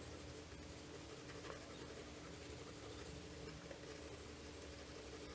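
Faint pencil strokes scratching on sketchbook paper while shading is added, over a steady faint hum.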